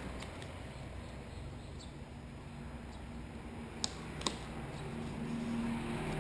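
A few faint clicks and taps, then a vehicle's engine hum growing louder near the end.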